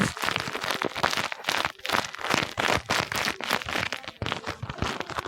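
Paper and tape crinkling and rustling in quick, irregular strokes as a homemade paper squishy is handled and squeezed.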